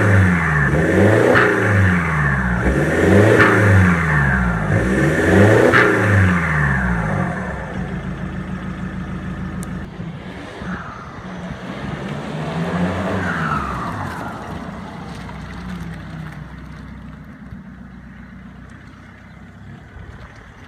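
Jaguar X-Type's four-cylinder turbodiesel through a straight-piped quad exhaust, revved several times in quick succession, with a short crack at the top of each rev. It then drops back lower, rises once more about twelve seconds in, and fades away.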